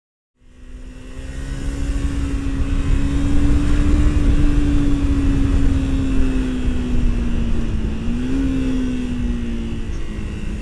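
Vehicle engine running at a steady road speed over a heavy low rumble of wind and road noise. The sound cuts in less than half a second in and swells over the next second. The engine note wavers slightly and rises briefly, then falls, about eight seconds in.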